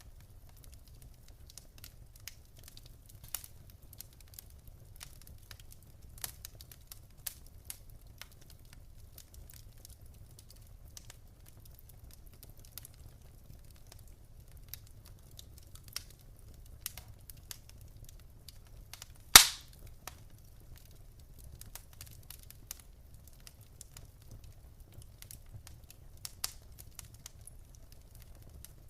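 Wood fire crackling in a fireplace, with scattered small snaps and one loud, sharp pop about two-thirds of the way through.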